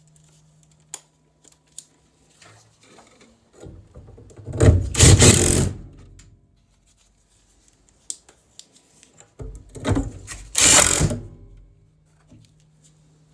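Hand-tool and parts-handling noise on a furnace: two loud rattling bursts of about two seconds each, around four and ten seconds in, with scattered light clicks between them over a faint steady low hum.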